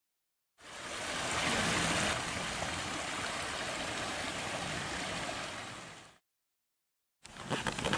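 River water flowing: a steady rushing that fades in shortly after the start and fades out about six seconds in.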